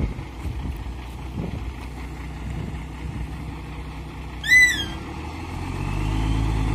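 A heavy diesel truck engine running steadily, growing louder near the end as it comes closer or takes load. About four and a half seconds in, a brief high-pitched chirp sounds once.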